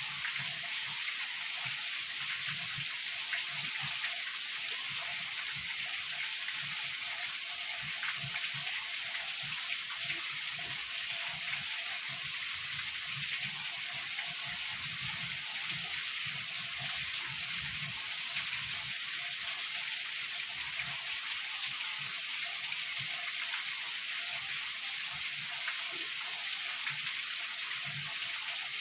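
Heavy rain falling steadily: an even hiss with no breaks or swells.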